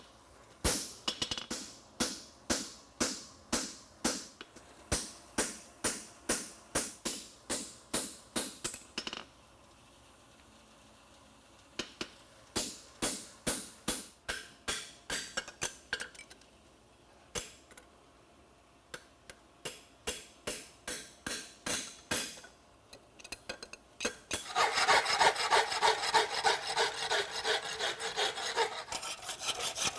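Hand hammer striking a steel horseshoe on the anvil, about two blows a second, in three runs with short pauses. Near the end it gives way to a continuous rasping scrape against the steel.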